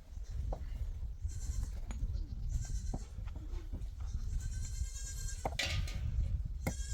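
Goats bleating several times over a heavy low rumble.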